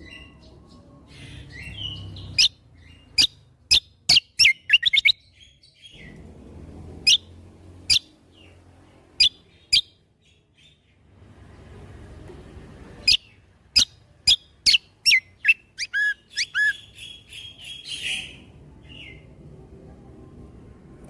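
A kecial kombo (cucak kombo) songbird singing in bursts of sharp, loud, piercing notes. These are the 'tembakan' shots that bird keepers prize. Some notes come singly, and there are quick runs of several in a row about four seconds in and again from about thirteen to seventeen seconds, separated by pauses. A faint low rumble sits underneath.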